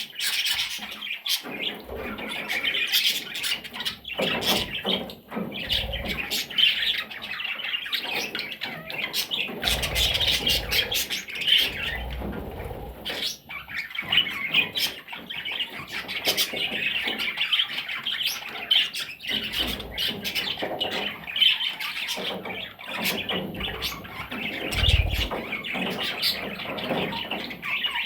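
Budgerigar chattering and warbling without a break, mixed with squawks and short clicky notes.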